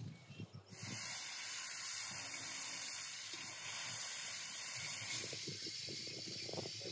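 Lamb offal frying in a wide two-handled pan over a fire, a steady sizzle that starts abruptly about a second in, with a few soft knocks near the end.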